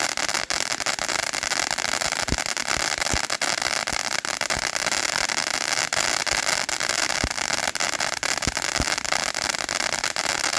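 A 500-gram firework fountain spraying: a steady, loud hiss with scattered crackles and pops running through it.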